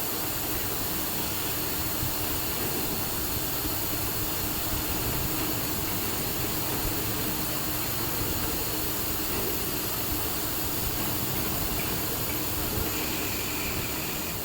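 CNC machining center running, a steady machine whir and hiss with no breaks.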